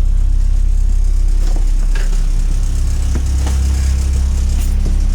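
The rear-mounted diesel engine of a 1997 Blue Bird TC2000 RE school bus idling steadily, heard from inside the bus, with a slight swell in the low hum partway through and a few faint clicks.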